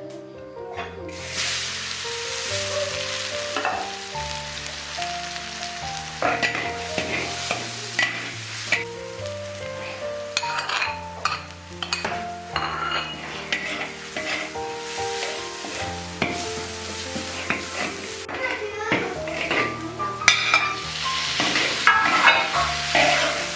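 Toothpick beef stir-frying in hot oil: a steady sizzle, with a spatula scraping and clicking against the pan over and over. The sizzle sets in about a second in.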